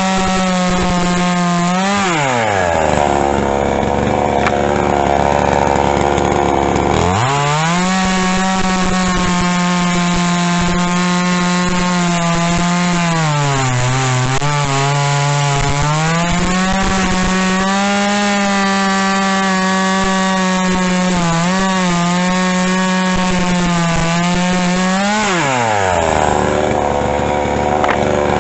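Pinkway 63cc two-stroke chainsaw cutting wood at full throttle. It drops to idle about two seconds in, revs back up about seven seconds in, sags briefly around the middle and drops to idle again near the end.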